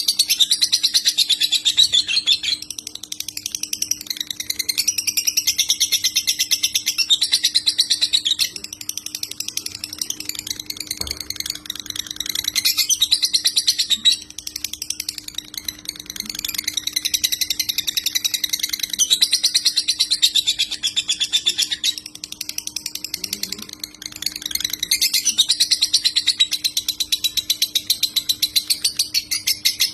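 Lovebird singing its long, rapid chattering song in phrases of several seconds each, with brief pauses between them, the continuous chatter of a 'konslet' lovebird. A faint steady hum lies underneath.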